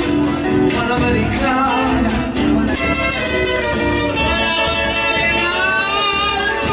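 Latin American folk song: a singer sings a line and then holds a long, wavering note over guitar accompaniment.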